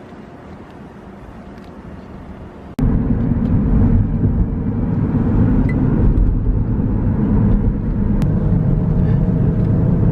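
A car's road noise: a low, steady rumble that starts abruptly about three seconds in, after a quieter stretch.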